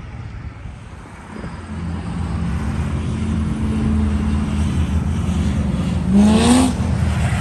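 Car engine running with a steady low rumble that grows louder about two seconds in. Near the end there is a short rising rev.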